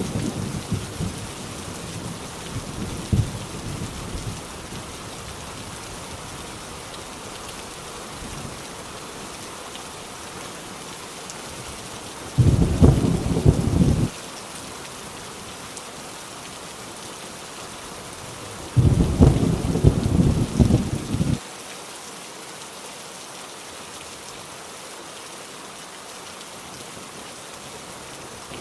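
Heavy rain falling steadily on an old rusty tin roof, with thunder rumbling low in the first few seconds. Two loud bursts of thunder, each about two seconds long, start and stop abruptly about twelve and nineteen seconds in.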